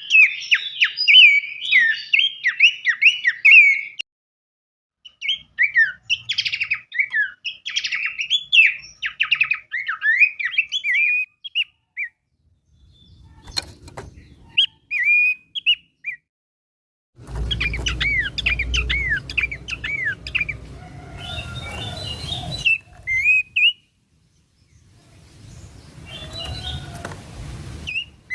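Spliced recordings of songbirds singing: rapid runs of sharp chirps and whistled notes, cut off abruptly by short silent gaps between clips. One clip near the middle has low background rumble under the song.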